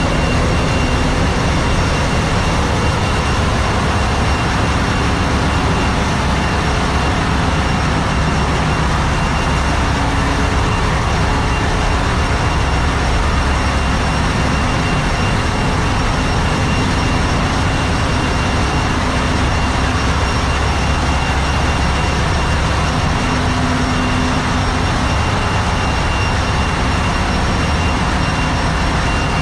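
Steady, loud din of a tanker's engine room machinery running, with a deep rumble underneath and a thin, constant high whine.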